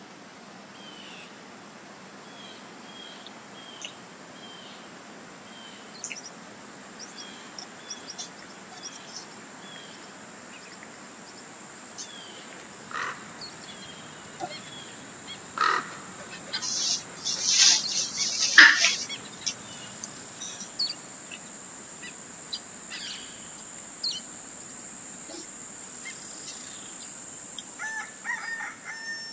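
Birds chirping and calling over a steady faint hiss: one bird repeats a short chirp through the first half, a louder flurry of calls comes about two-thirds of the way in, and a lower, pitched call sounds near the end.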